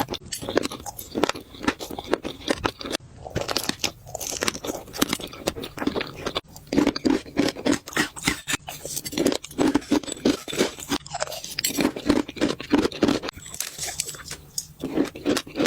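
Close-miked crunchy chewing and biting: a person eating crunchy food, with a rapid run of crackling crunches broken by a few short pauses.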